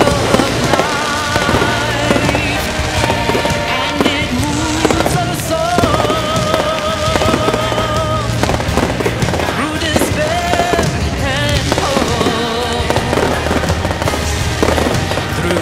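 A fireworks display going off in quick succession, with many bangs and crackles, over loud music carrying a held, wavering melody.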